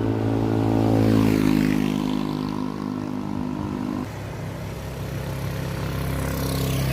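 Motor vehicles passing by on the road, engine and tyre noise rising and falling, with one pass about a second in and another near the end.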